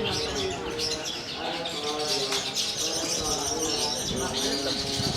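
Several long-tailed shrikes singing at once, a dense run of rapid high chirps and twitters, with lower, fuller calls underneath.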